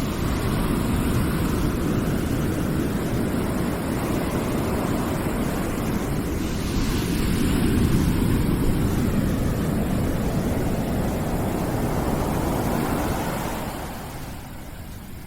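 Steady rushing noise, heaviest in the low end, swelling about halfway through and easing off near the end.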